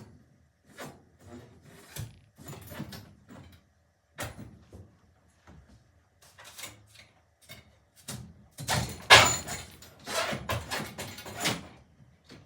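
Handling noise of threaded rod and wooden shelving being worked by hand: a string of separate knocks, clicks and scrapes, turning into a louder, busier clatter about nine seconds in.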